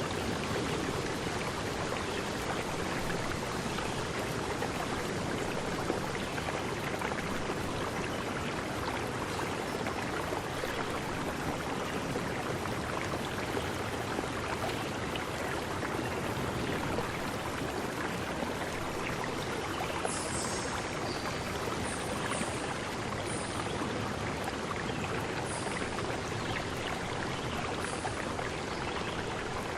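Steady rushing water noise with no breaks. From about two thirds of the way through, a few short, very high chirps sound over it.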